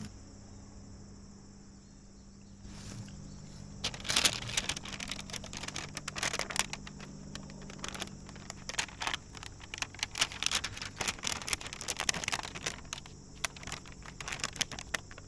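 Wax paper crinkling and rustling in many short, irregular bursts as hands flatten and press a patty of fish pâté around a boiled egg. Crickets chirp steadily in the background.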